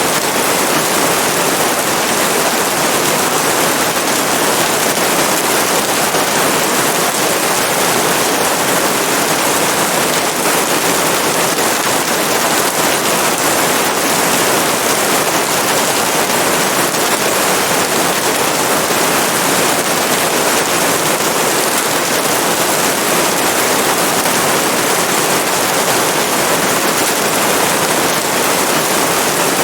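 Steady heavy rain, an even hiss dotted with the fine patter of drops.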